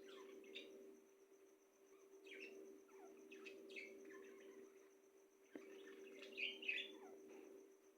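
Faint chirps and short calls from small birds, scattered throughout, with a louder cluster about six and a half seconds in, over a steady low hum.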